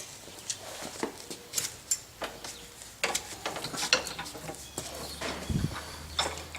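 Scattered light metallic clinks and knocks of blacksmithing tools and bar stock being handled at a vise. A low hum starts about four seconds in, with a dull thump a little later.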